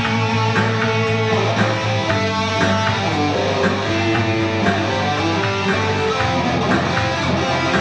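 Rock band playing an instrumental passage, an electric guitar leading with long held notes over a steady beat.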